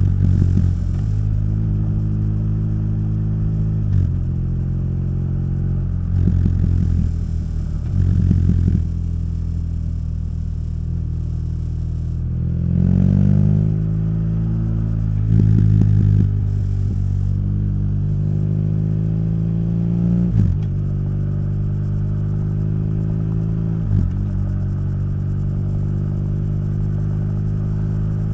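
BMW R nineT boxer-twin engine through its stock Akrapovic exhaust, heard while riding. The revs rise and fall several times, with a clear climb about halfway through and a few short louder bursts as the throttle opens.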